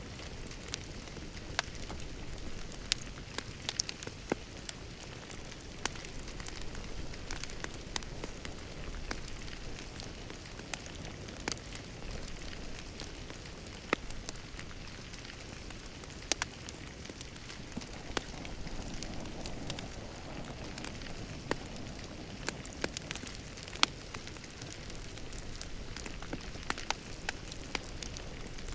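Wood fire crackling in a fireplace: a steady soft hiss broken by many irregular sharp pops and snaps.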